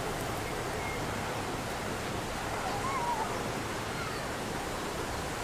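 Steady rushing noise of sea surf at the beach, with a faint short warbling tone about three seconds in.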